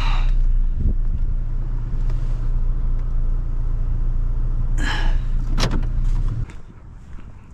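Vehicle engine running as it pulls up, then switched off about six and a half seconds in, with a couple of short higher-pitched noises shortly before it stops.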